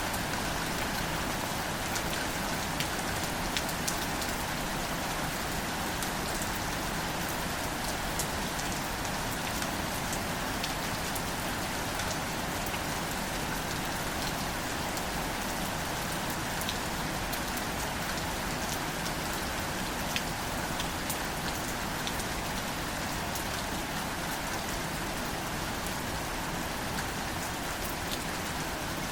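Steady gentle rain falling on plants, with scattered individual drops ticking close by.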